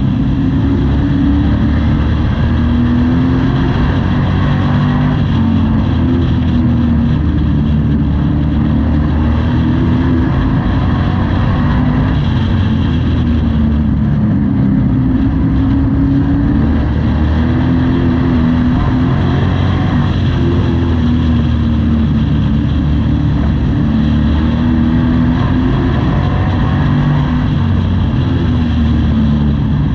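Pro Truck race engine heard from inside the cab, running loud and hard, its pitch rising and falling over and over as the driver gets on and off the throttle.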